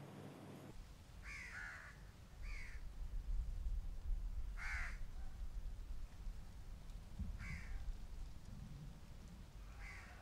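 A bird gives five short calls at uneven intervals, over a steady low outdoor rumble that starts about a second in.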